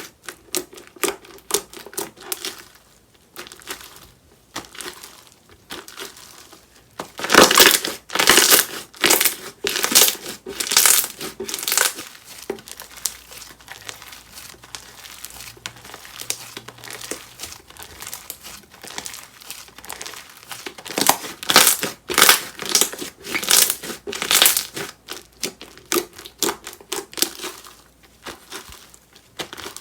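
Slime being squeezed, pressed and stretched by hand, giving runs of crackling, crinkling pops, with two louder spells of dense crackling and quieter squishing between.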